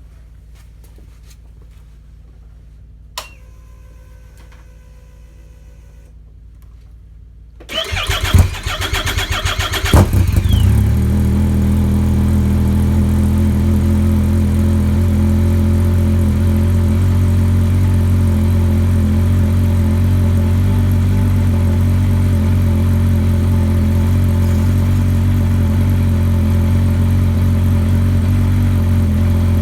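A Yamaha Viper RTX SE snowmobile's 1049 cc three-cylinder four-stroke engine with an MBRP race can exhaust cranks on the starter for about two seconds near the middle, catches and settles into a steady cold-start idle. Before that there is a click, then a steady beep lasting about three seconds.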